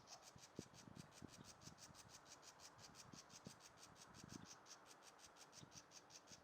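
Faint, irregular scratching and light knocking, over a steady high ticking of about five a second.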